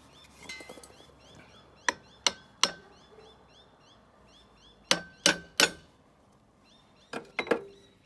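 Hard metal-on-metal blows with a ringing clang, struck while working an engine flywheel loose. They come in three close blows about two seconds in, three more about five seconds in, and two near the end. A bird chirps repeatedly and faintly in the background.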